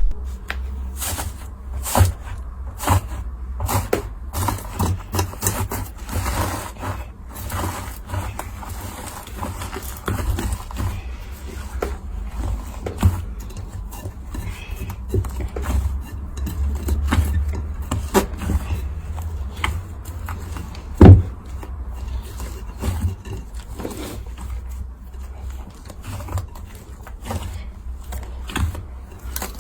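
Slime being squeezed and poked by hand, giving irregular sticky clicks and small pops over a low rumble, with one sharper knock about 21 seconds in.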